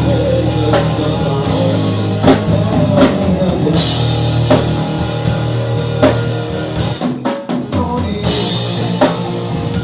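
Rock music with a drum kit and guitar on a steady beat; the band briefly thins out about seven seconds in before the cymbals crash back in.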